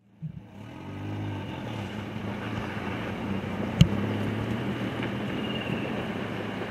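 A vehicle engine running steadily at idle over outdoor water and wind noise, with its pitch wavering briefly about a second in. A single sharp click comes a little under four seconds in.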